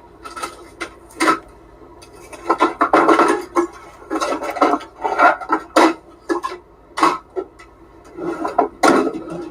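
Irregular clatter and rustling of objects being handled and set down: a string of short knocks and scrapes, some louder, like containers and tableware being moved about.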